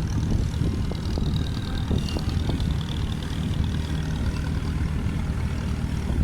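Steady, low engine rumble, with a few light knocks.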